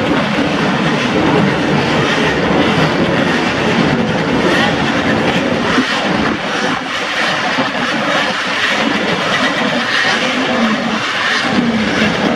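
Engines of vintage racing motorcycles, machines built before 1972, running at speed on a race circuit. Loud and steady, with no single clear pass-by.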